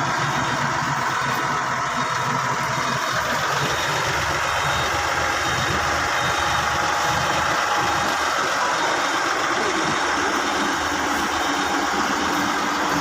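Engine of a bus or straight truck running steadily.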